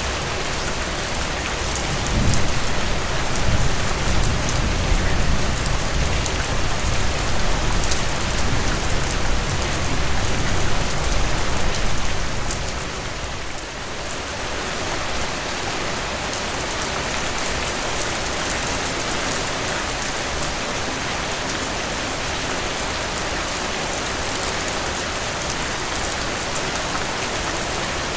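Steady rainfall, an even hiss of many drops with fine pattering. For about ten seconds, starting about two seconds in, a low rumble swells beneath the rain and then fades away.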